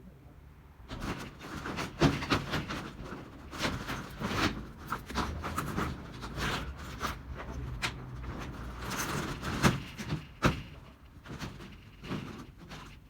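Corrugated metal roofing being pulled apart and handled: irregular scraping, rattling and knocks, with sharp bangs about two seconds in and again near ten seconds.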